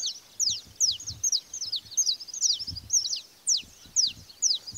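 Several birds chirping, with quick, sharp notes that slide downward in pitch, a few each second and overlapping one another.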